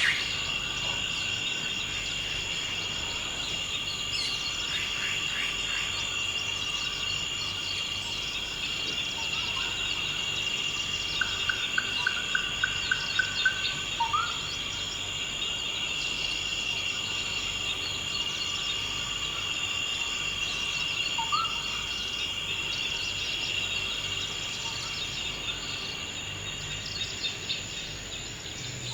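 Forest ambience of insects trilling steadily at a high pitch, with scattered bird calls: a quick run of repeated notes about eleven seconds in and a few short rising whistles.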